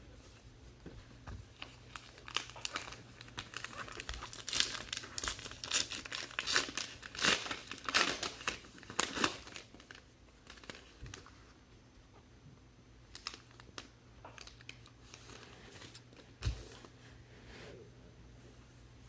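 Wrapper of a trading card pack being torn open and crinkled, a dense flurry of sharp crackles in the middle few seconds, then lighter scattered rustling and a single soft thump.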